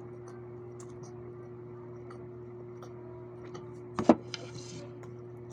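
Faint eating sounds over a steady low electrical hum: scattered soft clicks, then a sharp clink of cutlery on a plate about four seconds in, followed by a few softer clicks.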